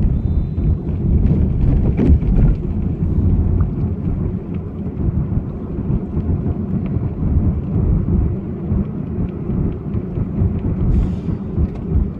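Car on the move, heard from inside: a steady low rumble of road and wind noise, with a few light knocks and rattles about two and three seconds in.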